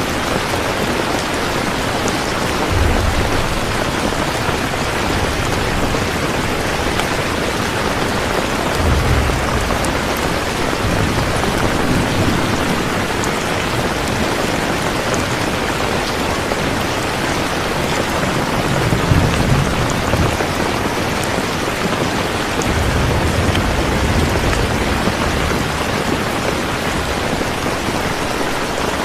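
Steady rain falling, an even hiss, with several brief low rumbles through it.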